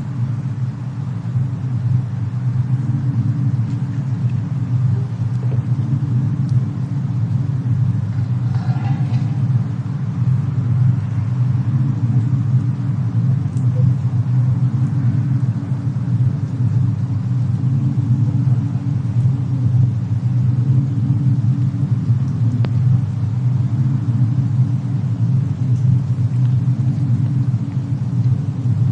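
Fireplace and snowstorm ambience: a steady low rumble with a few faint crackles over it.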